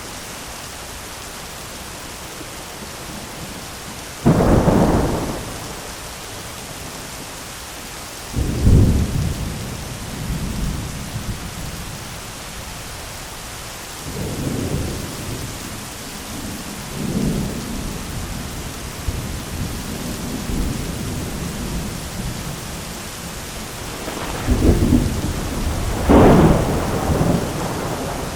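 Steady heavy rain falling on an umbrella during a thunderstorm. Thunder breaks in with a sudden loud clap about four seconds in and another at about eight seconds, then lighter rumbles, and a longer rolling rumble near the end.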